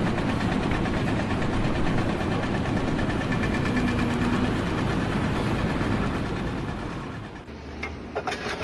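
An engine running steadily, dying down near the end.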